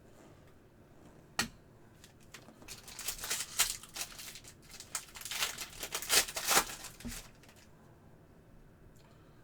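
Foil trading card pack being torn open and crinkled: a single sharp click about a second and a half in, then about five seconds of tearing and crinkling wrapper that stops near the end.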